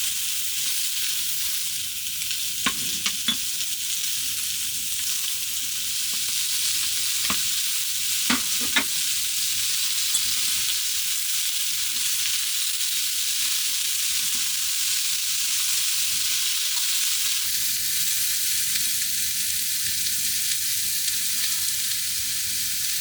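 Food sizzling steadily in a hot pan, with a few sharp clicks about three seconds in and again around seven to nine seconds in.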